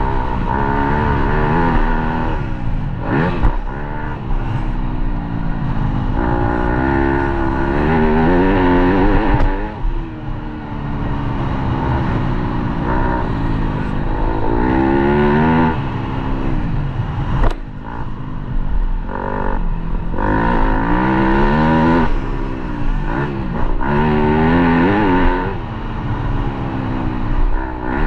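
Dirt bike engine riding a motocross track, revving up and backing off over and over as it accelerates, shifts and brakes for the turns.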